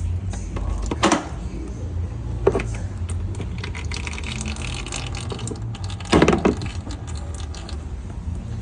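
Workshop handling noises during a gearbox oil drain: three short metallic clatters over a steady low hum, with a fainter hiss in the middle.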